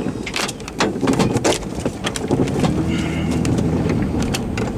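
Golf-ball-sized and larger hailstones striking the vehicle's body and windshield in irregular sharp knocks, with the vehicle's engine running underneath.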